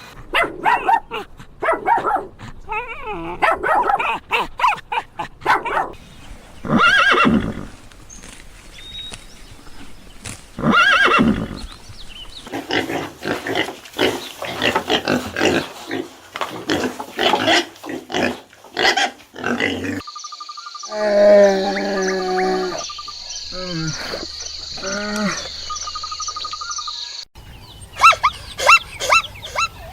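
A string of different farm-animal calls, one clip after another, with sudden changes of sound where the clips are cut together, about two-thirds of the way in and again near the end.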